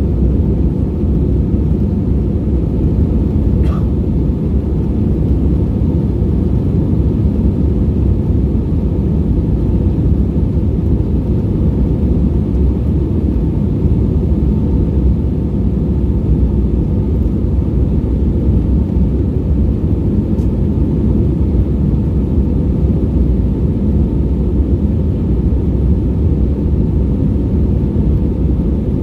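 Airbus A320-232 cabin noise heard from a window seat: a steady, loud, low-pitched drone of the IAE V2500 engines and airflow, unchanging throughout.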